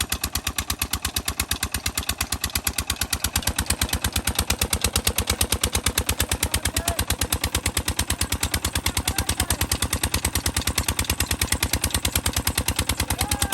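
Single-cylinder 'Peter' diesel engine driving a mini tubewell pump, running steadily with a rapid, even beat of firing strokes.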